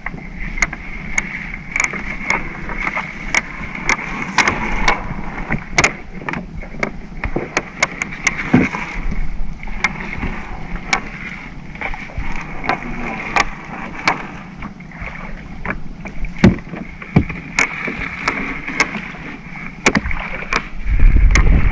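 Small fishing boat's engine running steadily, with frequent sharp clicks and knocks from the blue swimming crab net and catch being hauled aboard. Near the end a heavy low rumble of wind on the microphone comes in.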